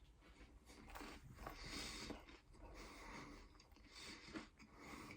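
Near silence, with a few faint soft swells of noise.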